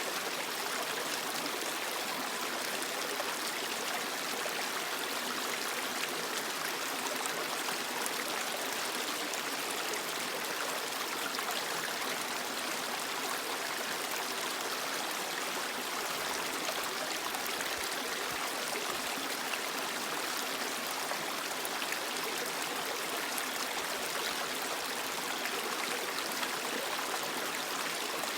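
Creek water flowing steadily over rocks, an even rushing and babbling with no change throughout.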